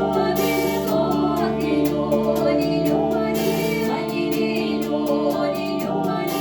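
Russian folk song performed with female singing over steady held instrumental tones and a light, regular beat, with two brief hissing swells.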